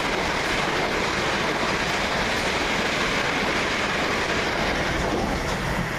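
A twelve-coach train of three coupled Southern Class 377 Electrostar electric units passes through the station, a steady, continuous rumble of wheels on rail.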